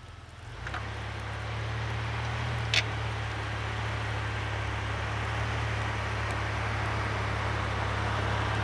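Sunrader 4x4 truck camper's engine running steadily as the truck drives, with engine and tyre noise building about a second in. A single short click near three seconds.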